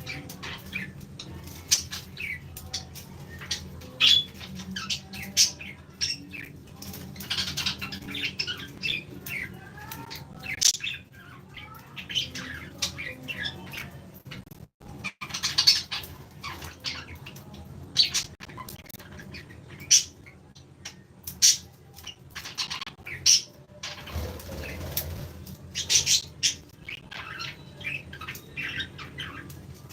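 A flock of aviary birds chirping and squawking in many quick, sharp, overlapping calls over a low steady hum, with a momentary break about halfway through.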